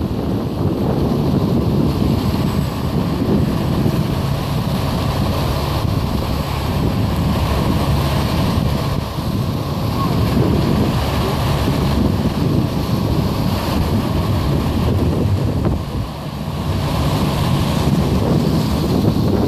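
Wind buffeting the microphone over the steady rumble of vehicles in a passing procession.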